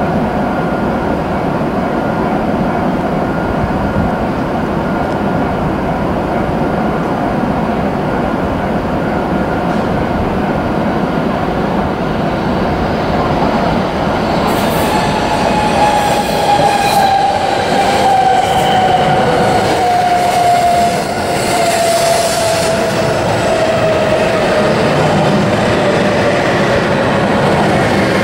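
E7/W7-series Hokuriku Shinkansen train running slowly into the station with a steady rumble of wheels and running gear. From about halfway there are clicks over the rail joints and points, and a whine falls steadily in pitch as the train slows.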